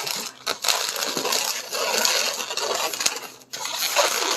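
Latex modelling balloons squeaking and rubbing against each other as they are twisted into pinch twists, a dense run of rubbery squeaks and scrapes with a brief pause about three and a half seconds in.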